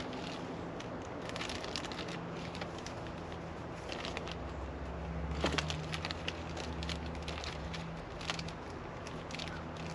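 Crackling and rustling of packaging being handled, with scattered sharp clicks, the loudest about halfway through, over a steady low hum.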